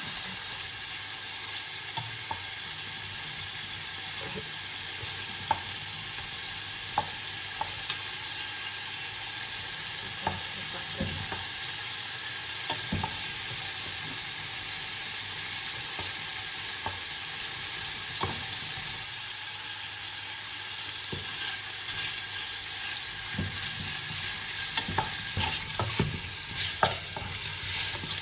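Shrimp sizzling steadily as they fry in oil in a pot, with scattered clicks of tongs turning them and, in the last few seconds, quicker taps and scrapes of a wooden spatula stirring them.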